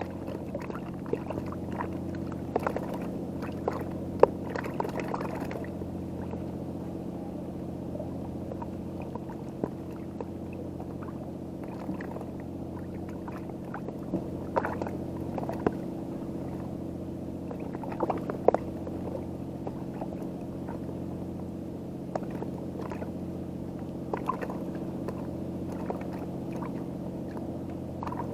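An engine running steadily at idle, a low hum with several even tones, with water sloshing and scattered small clicks and knocks.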